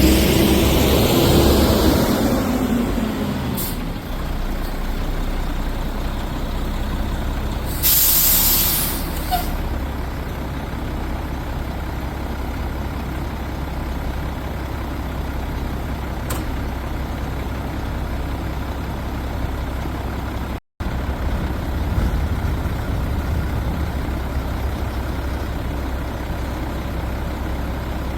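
Heavy garbage truck running with a steady low diesel rumble, loud at first and fading as it moves off. About eight seconds in comes a sharp hiss of air brakes, about a second and a half long.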